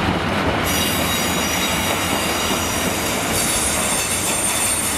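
Freight train of tarpaulin-covered wagons rolling past, wheels rumbling on the rails, with high-pitched wheel squeal that sets in about half a second in and grows shriller a few seconds later.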